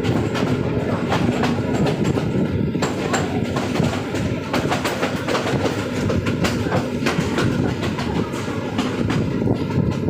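Passenger train running along the track: a steady rumble of the carriages with frequent sharp clicks and rattles from the wheels over the rails.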